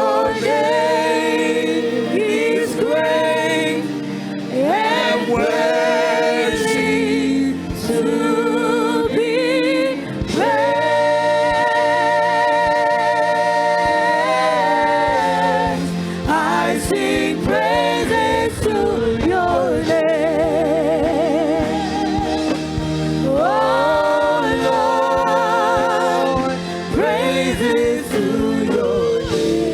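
Gospel worship singing with instrumental backing: voices hold long notes, some with a wide vibrato, over a steady low bass.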